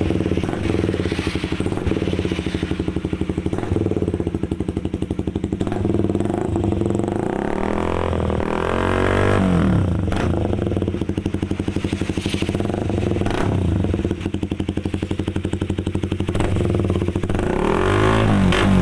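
Honda CB150R's single-cylinder engine running through a KRM Racing aftermarket exhaust with a stainless-steel silencer packed with glass wool, giving a bassy note. It idles steadily and is blipped up and back down about eight seconds in, then again near the end.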